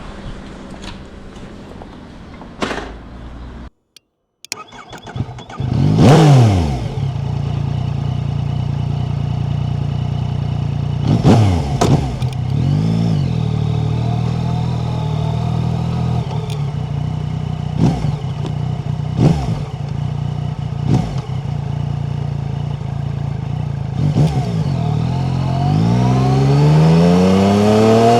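Yamaha MT-09's three-cylinder engine starting about five seconds in, flaring and settling into a steady idle. It is given several short, sharp throttle blips, then revved up in one long, steadily rising sweep near the end.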